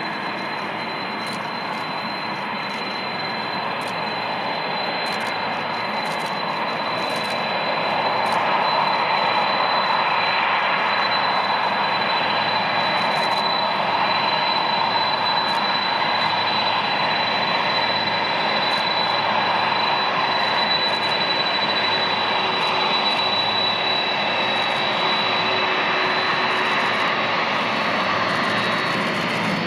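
Boeing 747-400's four jet engines at takeoff power: a steady, loud roar with a high whine, building over the first eight seconds or so and then holding.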